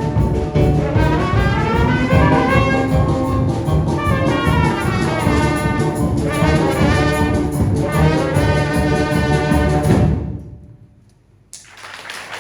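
Children's brass band, with trumpets and trombones, playing the final bars of a piece; the last chord dies away about ten seconds in. After a second's pause, applause starts near the end.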